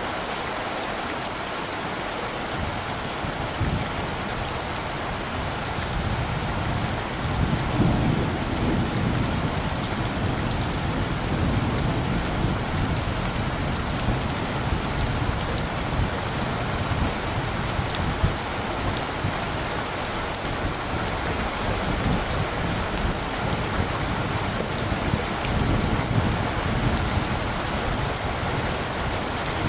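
Steady rain falling and pattering on surfaces, with a low rumble of light thunder swelling about a quarter of the way in and again near the end.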